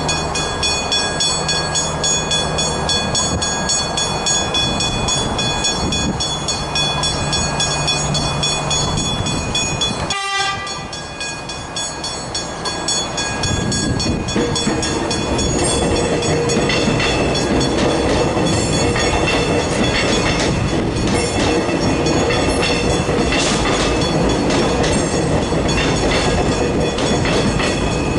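Level crossing warning bells ringing steadily, cut briefly about ten seconds in, then a suburban electric train running over the crossing with rail rumble under the bells.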